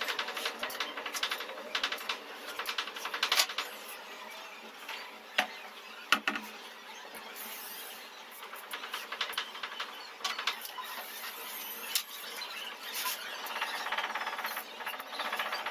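Woodworking tool noise: short runs of a small power tool buzzing, with sharp knocks, the loudest about five and six seconds in.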